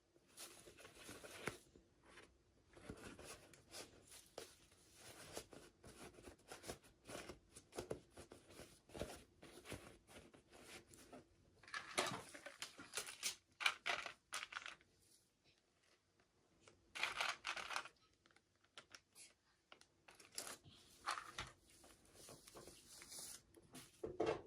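Toy packaging being handled and opened: irregular rustling, crinkling and tearing with small clicks, louder in two bursts about halfway through.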